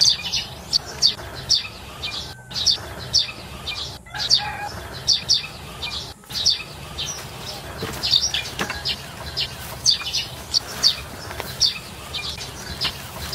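Small birds chirping: short, high chirps repeating about twice a second, over a steady low background rumble, with the sound briefly dropping out three times.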